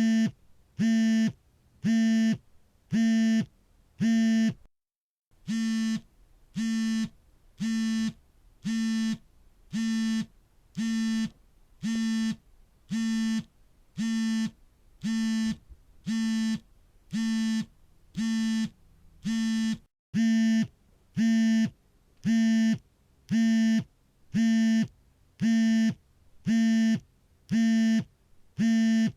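A smartphone's vibration alert for an incoming call: short, steady low buzzes about half a second long, repeating about once a second. The pulses stop briefly about five seconds in, then resume.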